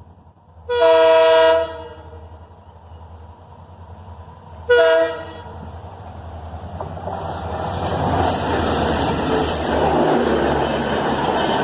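Indian Railways diesel locomotive's multi-tone air horn sounds twice: a blast of about a second, then a shorter one some three seconds later. After that the train's running noise, engine and wheels on the rails, grows steadily louder as it comes near.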